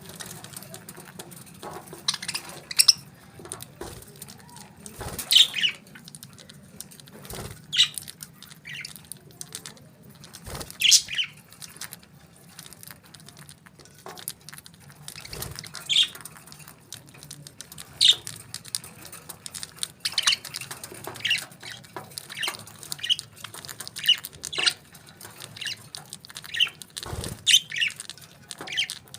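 Small pet parrots calling: many short chirps and squawks, some sliding down in pitch, scattered through the stretch, with a few faint knocks in between.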